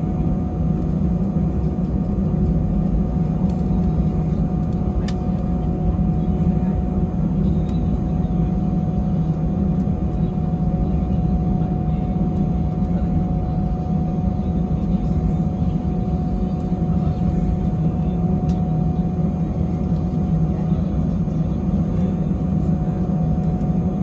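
Steady cabin noise inside an Airbus A320-200 airliner: a low, even engine and airflow hum with a thin steady tone above it, holding level without rising or falling.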